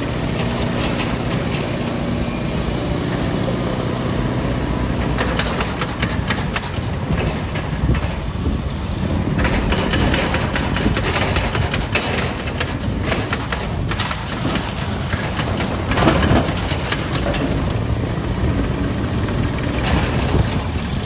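Heavy diesel machinery engine running, with a rapid clatter of knocks, like rock striking rock and steel, from about five seconds in; the loudest knock comes late.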